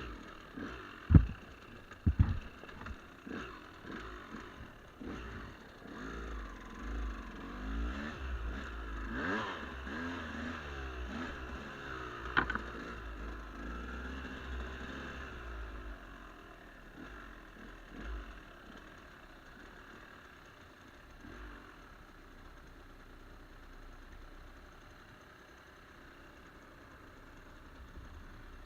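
Steady rush of a waterfall. Over it, in the first half, footsteps on leaf litter with sharp knocks, two loud ones near the start, plus a low rumble; one more sharp knock about halfway, then only the steady rush.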